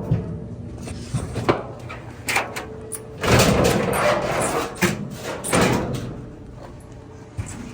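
Sheet-metal panels of a Kenmore dryer cabinet being handled: scattered clanks and knocks, with two rough scraping stretches about three and five and a half seconds in.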